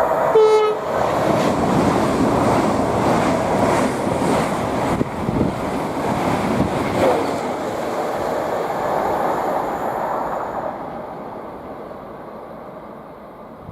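Two express trains passing at speed in opposite directions on the East Coast Main Line: a Class 91 electric locomotive hauling an InterCity 225 set and a Class 800 IET. Their wheel and air rush starts about a second in, holds steady, then fades away over the last few seconds.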